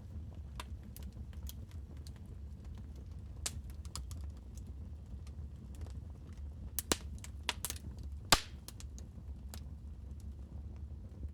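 Wood fire crackling in a fireplace: irregular sharp pops and snaps over a steady low rumble of the flames, with a few louder pops in the second half.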